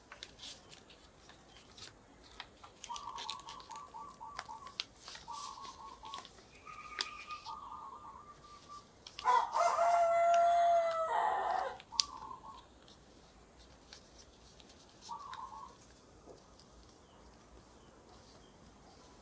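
A rooster crowing once, a drawn-out call of about two and a half seconds starting about nine seconds in and the loudest thing here. Short clucking calls come before and after it.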